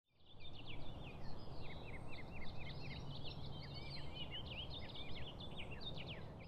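Birds chirping: a busy run of short, high, quickly repeated chirps from several birds over a low, steady rumble of outdoor ambience, fading in at the start.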